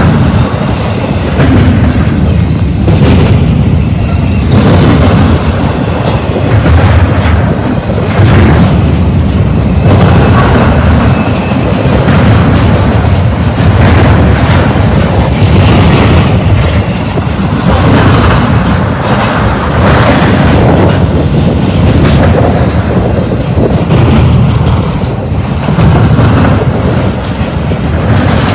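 Double-stack intermodal freight train's well cars rolling past close by: a loud, steady rumble with the clatter of steel wheels on the rails.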